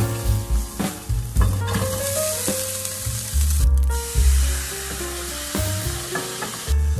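Garlic and gochujang sizzling in sesame oil in a nonstick frying pan, stirred with a wooden spatula. After a brief break a little over halfway, rice sizzles as it is stir-fried in the pan. Background music with bass notes plays throughout.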